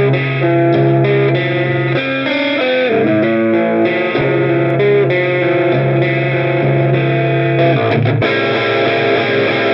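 Electric guitar played through an Olinthus Cicada overdrive pedal, giving a mildly distorted, punchy overdrive tone. Held notes and chords change every second or so, with a fresh strum about 8 seconds in.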